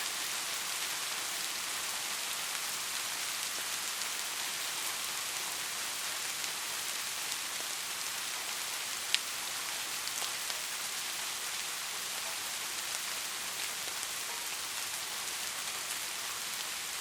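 Steady rain falling, an even hiss of many drops with scattered distinct drop ticks; one sharper, louder drop tick about nine seconds in.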